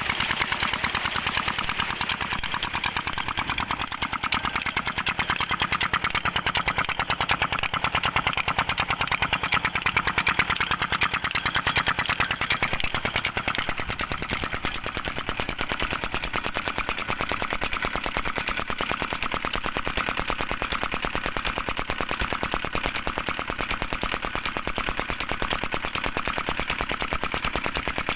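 16-horsepower diesel engine driving a tube-well water pump, throttled down to a slow speed and running with a steady, rapid, even firing beat.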